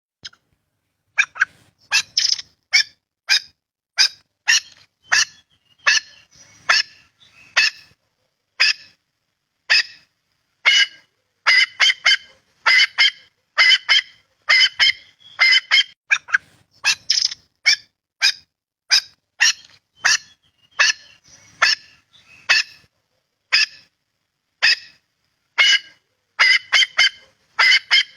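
Bird of paradise calling: short, loud, high calls repeated one to two times a second, in runs broken by brief pauses.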